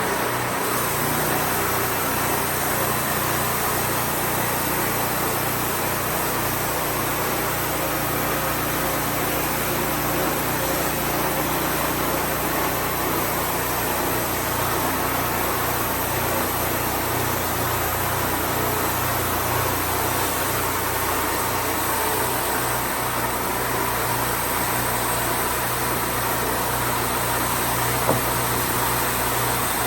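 Wood-Mizer band sawmill running, its engine a steady drone under an even hiss with no change in pace.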